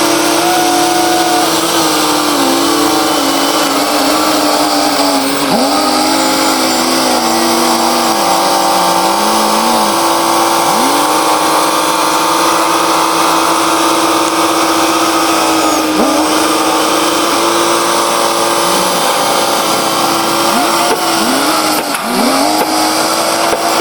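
Bulldozer running steadily, a continuous engine note with a high whine that briefly dips in pitch a few times.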